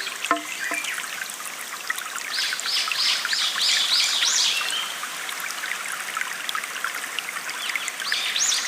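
Water trickling and flowing steadily, with a songbird singing a quick run of about seven repeated high chirps a couple of seconds in and again near the end.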